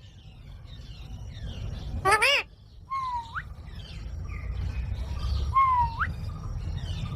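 A green parrot calling: one harsh screech about two seconds in, then two short whistles, each rising sharply at the end, about three and six seconds in. A low rumble runs underneath.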